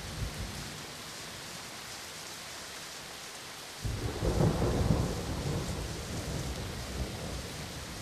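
Steady rain falling, with a brief low rumble of thunder at the start, then a louder thunderclap about four seconds in that rolls and slowly fades.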